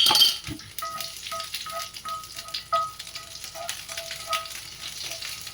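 Green chilies and mustard seeds frying in hot mustard oil, with a loud sizzle at the very start that settles into a steady crackling hiss.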